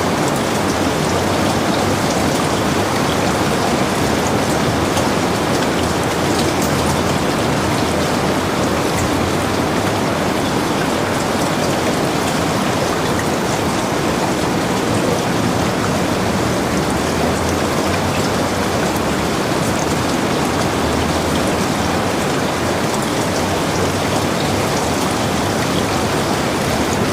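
Steady rain falling, a dense even hiss with fine scattered drop patter.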